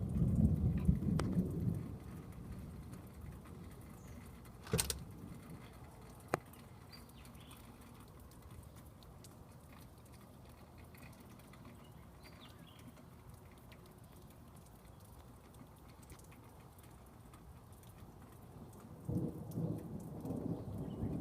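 Thunder rumbling and dying away over the first couple of seconds, then faint steady rain, with two sharp ticks around the fifth and sixth seconds; a new roll of thunder builds near the end.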